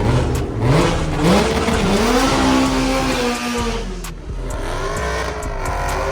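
A car engine accelerating hard: its pitch climbs in steps for about two seconds, holds, then falls away about four seconds in. A second engine note rises and falls after it.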